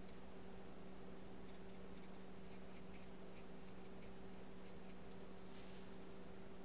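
Paintbrush working gouache onto paper: a run of faint short dabs and taps, with one longer brushing stroke near the end, over a steady low hum.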